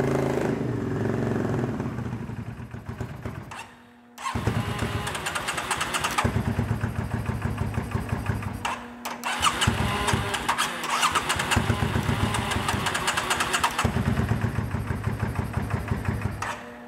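Yamaha V-Star 650's air-cooled V-twin engine running, cutting out about four seconds in, then being cranked and started again. It runs on in uneven stretches with brief dips and stops near the end.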